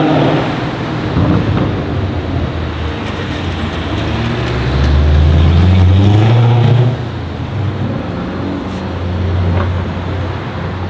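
Mercedes C63 AMG Black Series's 6.2-litre V8 with an aftermarket exhaust accelerating away, its note rising in pitch to the loudest stretch about five to seven seconds in, then dropping off sharply. A smaller swell comes near the end.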